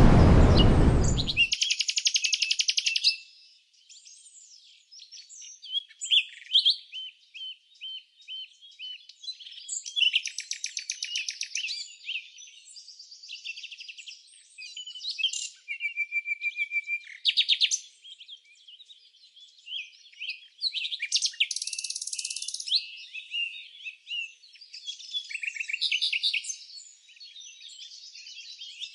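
Songbirds singing: a series of varied high chirps and rapid trilled phrases with short pauses between them. For the first second and a half a loud rushing noise covers everything, then cuts off suddenly.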